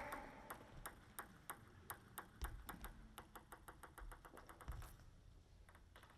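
A table tennis ball bouncing on a hard surface, its light clicks coming faster and faster until it settles about five seconds in. Two dull thuds sound beneath it.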